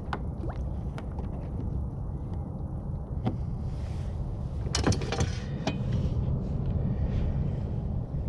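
Scattered knocks and clicks of gear being handled on a kayak, with a quick cluster of them about five seconds in, over a steady low rumble.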